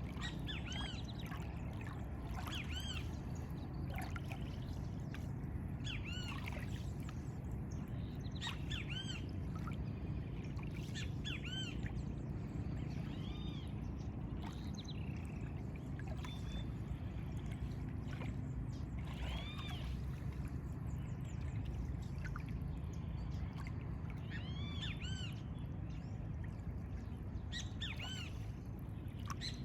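Many birds calling, a busy run of short, arching chirps, over a steady low rush of lagoon water.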